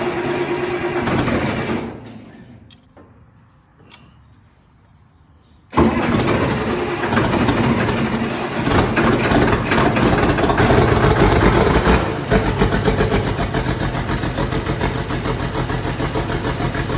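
Massey Ferguson 1130 tractor's diesel engine being started after five months of sitting. It runs, dies away about two seconds in, and after a quiet spell with a single click it comes back in suddenly and loud near six seconds. It runs hard for a few seconds, then settles to a steadier run.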